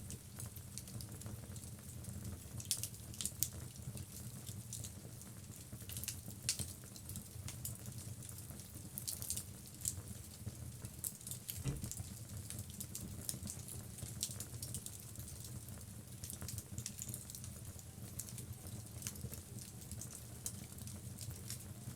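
Wood logs burning in a fireplace: a steady low rumble with frequent sharp crackles and pops, a few of them louder than the rest.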